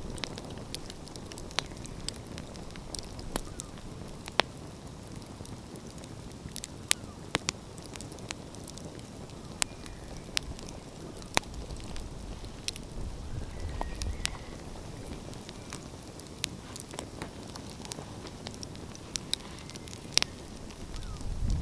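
Open wood fire crackling, with irregular sharp pops and snaps over a steady low hiss.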